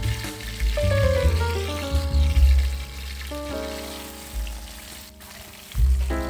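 Food sizzling as it fries in hot oil in a pan, under background music with a steady bass line.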